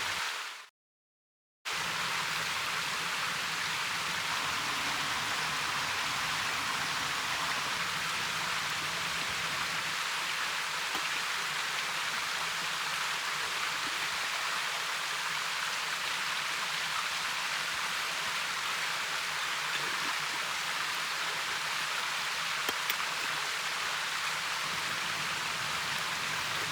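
Mountain stream flowing: a steady, even rush of water. It comes in about a second and a half in, after background music fades out and a brief silence.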